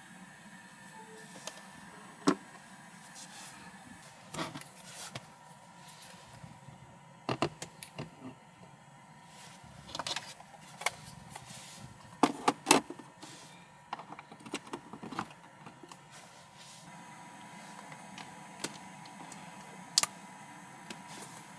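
Scattered clicks, taps and knocks of objects being handled, with a cluster of sharper knocks about twelve seconds in, over a faint steady hum.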